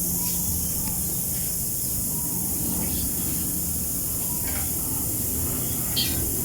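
Steady rushing hiss of jet engine noise over a low rumble with a steady low hum.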